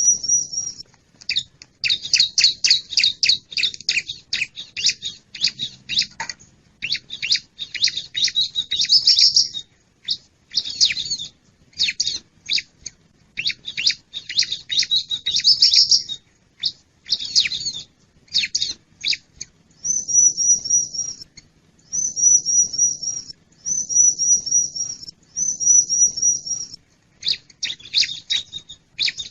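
Bar-winged prinia (ciblek) calling loudly in high-pitched bursts of rapid chirps, broken by short gaps. Several short wavering trilled phrases are repeated, most of them in the second half.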